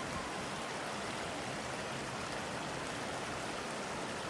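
Creek water rushing steadily, a continuous even hiss of flowing water.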